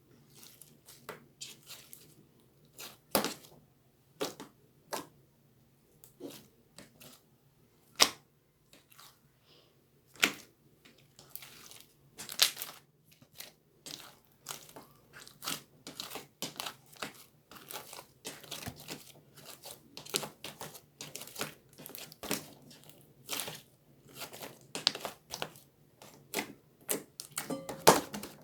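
Irregular crinkling and crackling with sharp clicks, some much louder than the rest, as a crinkly material is squeezed and pulled apart by hand.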